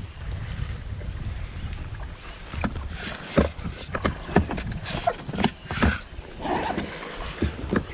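Kayak paddling on a river: wind rumbling on the microphone, then, from about two and a half seconds in, a run of sharp knocks and splashes from paddle strokes and the boat.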